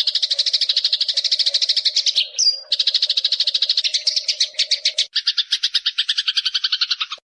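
Eurasian tree sparrow chirping in a fast, unbroken chatter of sharp chirps, many a second. There is a short break a little past two seconds in, the chirps change to a fuller, lower-reaching form about five seconds in, and the sound cuts off abruptly near the end.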